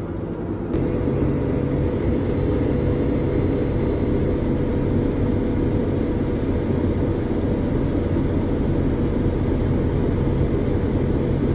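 Steady mechanical running sound of machinery, with a constant hum that does not change in pitch. It starts abruptly about a second in.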